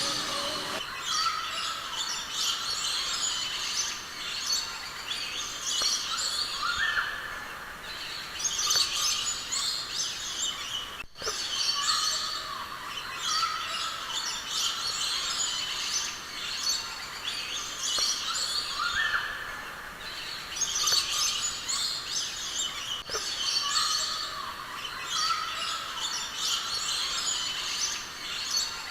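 Many birds chirping and calling together in a dense, continuous chorus of high chirps and short rising whistles. The same run of calls seems to come round again about every twelve seconds, with a brief cut in the sound about eleven seconds in.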